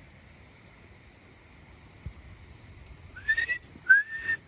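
Wood duck calls: two rising, whistled squeals about a second apart near the end, over a faint steady high hum.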